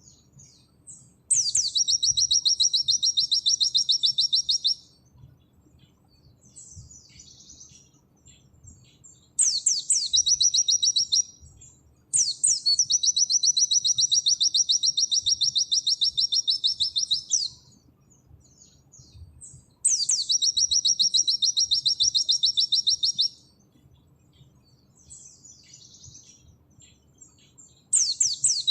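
A white-eye (pleci) singing its 'nembak' song: long, high, rapid trills, each opening with a quick falling sweep and then a fast even rattle of notes held for two to five seconds. About five such trills come, with softer twittering in the gaps between them.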